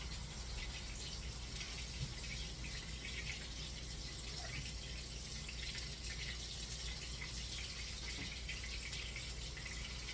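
Kitchen tap running in a steady hiss as coated hands are rinsed under it.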